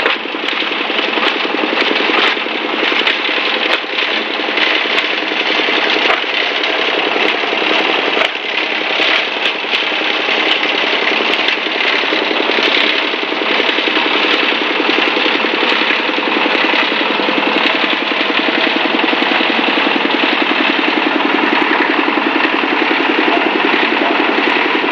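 Diesel-driven plastic bottle shredder running, its engine and steel blades making a dense, steady mechanical noise. Sharp cracks and knocks come through over roughly the first half, then it settles into an even run.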